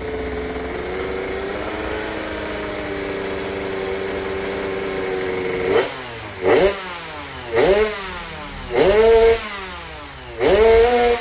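Motorcycle engine idling steadily, then revved in about four quick throttle blips, each rising and falling, in the second half. The engine is said to have weak compression, which its rough 'snoring' running note can hide.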